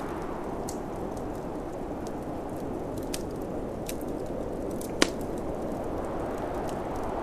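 Wood fire crackling with scattered sharp pops, one louder pop about five seconds in, over a steady low rush of snowstorm wind.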